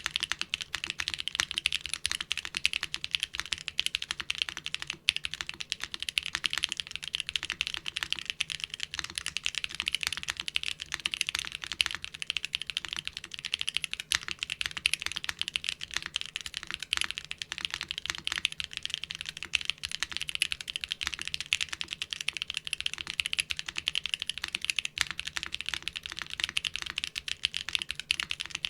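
Fast, continuous typing on a mechanical keyboard fitted with doubleshot keycaps. The keystrokes come as a dense, unbroken run of sharp clacks, recorded close up through a Shure SM57 dynamic microphone.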